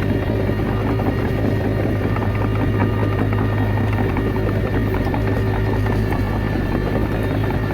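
Komatsu D21A bulldozer's diesel engine running steadily under work, with a busy rattle and clatter of the machine and its tracks.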